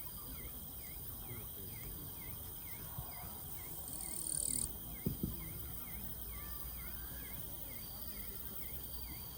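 An insect chirping steadily, about three short chirps a second, over a low murmur of voices. A brief high buzz comes about four seconds in, and two sharp clicks just after it.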